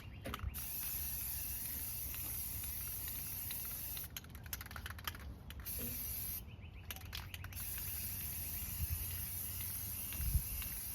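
Aerosol spray paint can hissing in long sprays, let off briefly twice (about 4 and 6.5 seconds in), as rust-preventing paint is sprayed onto metal.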